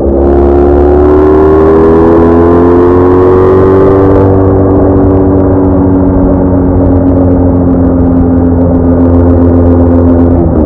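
BMW R1200R boxer-twin motorcycle engine running on the road. Its pitch rises slowly over the first few seconds and then holds steady, with a rush of wind for the first four seconds. The pitch drops suddenly near the end.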